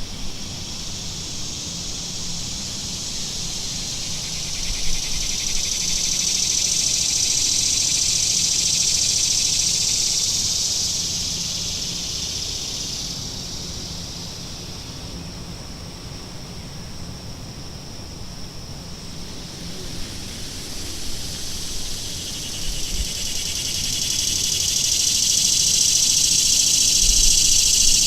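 Cicadas droning in a chorus, a high, steady buzz that swells, fades back through the middle, and swells again near the end.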